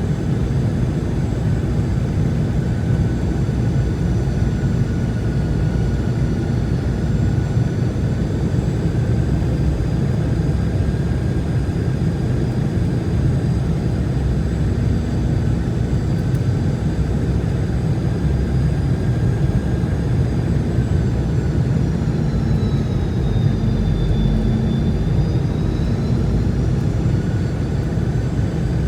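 Boeing 717's rear-mounted Rolls-Royce BR715 turbofan engines running, heard from inside the cabin: a steady low roar with a high whine over it. The whine dips in pitch a little after twenty seconds in and comes back up, a change in engine thrust.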